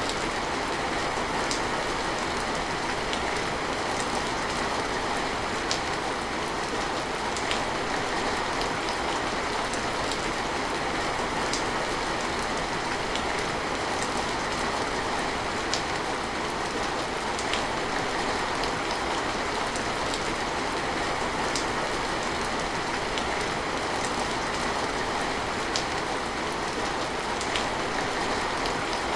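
Steady rain, with single louder drops ticking every second or two.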